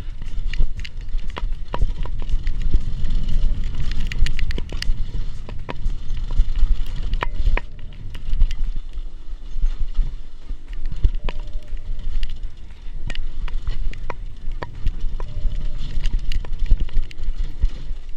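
Mountain bike descending a rough downhill trail: heavy wind rumble on the camera microphone, with rapid rattling clicks and knocks from the bike over the rough ground.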